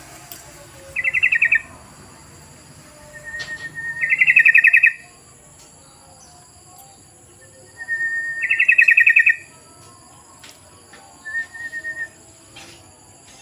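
Yellow-vented bulbul singing: four quick, bubbly rattling phrases, some opening with a short steady whistle; the second and third are the loudest.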